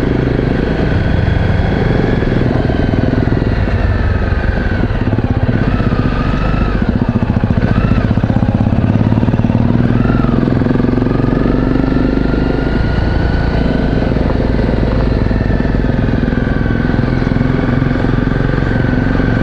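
Honda single-cylinder trail motorcycle engine running under way, its note rising and falling with the throttle a few times as the bike is ridden along.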